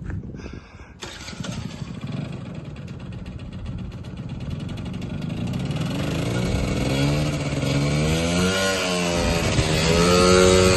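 Gilera DNA scooter engine being ridden, its pitch rising and falling repeatedly from about halfway through as the throttle is opened and eased off, getting louder toward the end.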